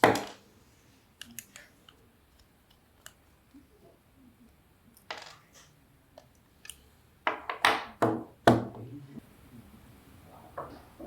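Clicks and knocks of hard objects being handled and set down: scattered light clicks, then a cluster of several louder sharp knocks in the second half.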